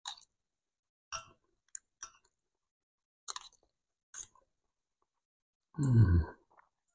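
Close-up chewing of food, with about six short crisp crunches spaced roughly a second apart. About six seconds in, a brief low voiced hum from the eater is the loudest sound.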